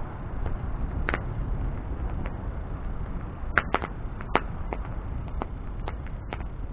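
Wood bonfire burning: a steady low rush of flame with irregular sharp crackles and pops of burning wood, a few louder snaps about halfway through.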